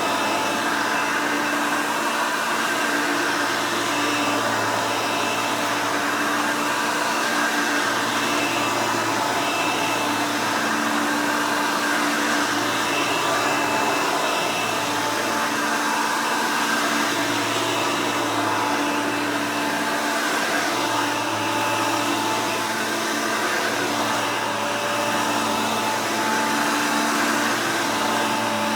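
Hoover Elite upright vacuum, built with an Elite 350 motor and an Elite 600 brush roll, running steadily at full power.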